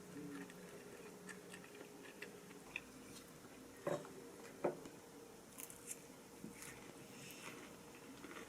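Faint scattered clicks and light taps in a quiet room, with two sharper clicks about four seconds in.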